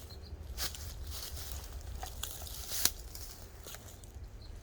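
Twigs and dry brush crackling and rustling as someone shifts about inside a thicket, with one sharp snap just before three seconds in.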